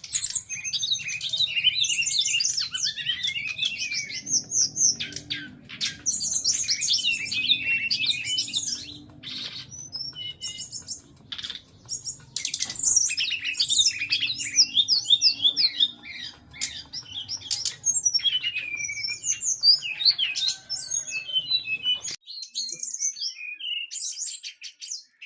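Caged brown-chested jungle flycatcher (sikatan rimba dada coklat) singing a long, fast, varied song of chirps and trills with short pauses, over a low hum that stops near the end.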